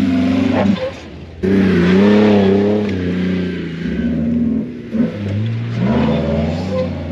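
Car engine revving under hard driving, its pitch rising and falling as the throttle is worked. The sound dips briefly about a second in, then comes back loud.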